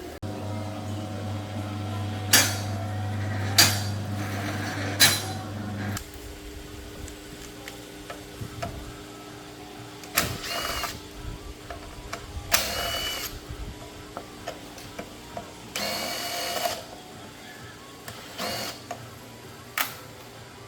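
Repair-work tool sounds: a steady low machine hum for about six seconds, with three sharp knocks in it, then several short bursts of a power tool running.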